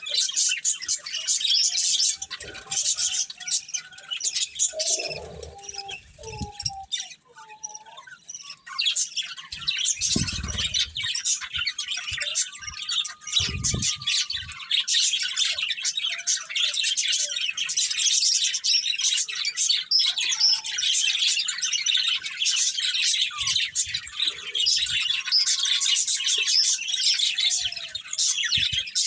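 Budgerigars chirping and chattering in rapid, high-pitched runs, with a brief lull about a quarter of the way in. A few low thumps sound around the middle.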